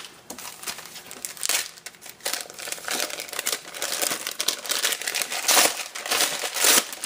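Crafting supplies' packaging crinkling and rustling as it is handled and opened, in irregular bursts that grow louder in the second half.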